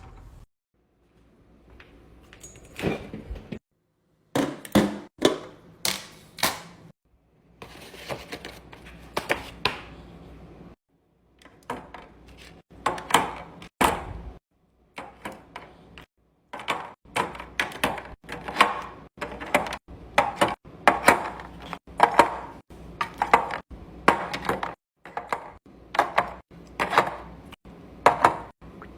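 Packaged food and containers being handled and set down during a pantry and fridge restock: a rapid run of knocks, clacks and taps, coming in short stretches that break off abruptly into silence.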